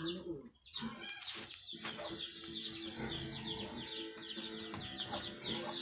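Many small birds chirping in quick, high, falling notes, overlapping and repeating throughout, with a few sharp taps.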